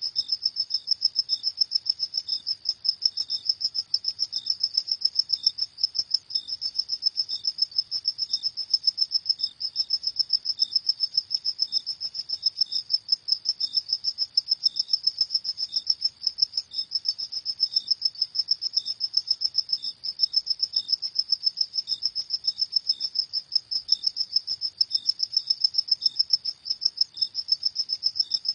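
Crickets chirping in a rapid, even, high-pitched pulse that keeps going without a break, with a fainter, slower chirp just below it.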